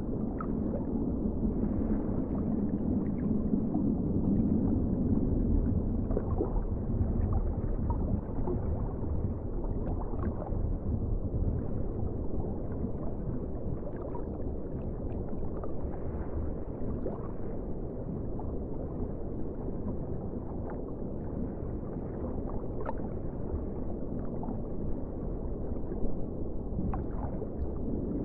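Underwater ocean ambience: a low, muffled rumble of water with faint scattered clicks and pops, a little louder in the first few seconds.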